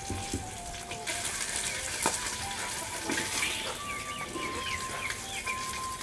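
Small birds chirping in a run of short, quick calls over a steady hiss.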